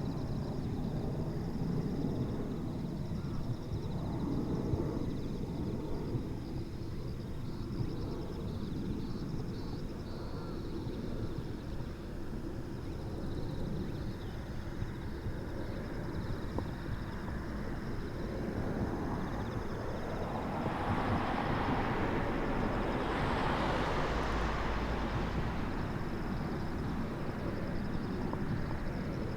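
Boeing 767 jet airliner flying past, its engines' rumble growing louder and fuller about two-thirds of the way through, then easing off.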